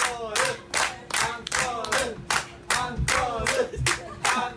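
Audience clapping in a steady rhythm, about three claps a second, with several voices shouting and calling over it.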